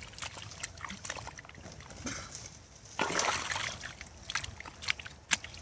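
Seawater sloshing and splashing in the shallows, with a longer splash about three seconds in and a few sharp clicks near the end.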